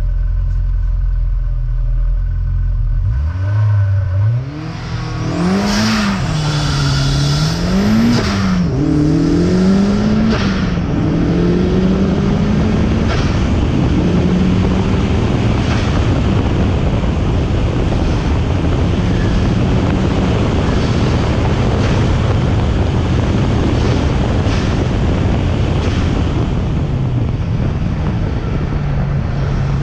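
Turbocharged 1992 Mazda Miata's 1.6-litre four-cylinder engine at a hillclimb launch: a low idle drone, then about three seconds in it revs up hard and accelerates, the pitch climbing and falling with each gear change before settling into a steady high-speed run with a rush of wind noise.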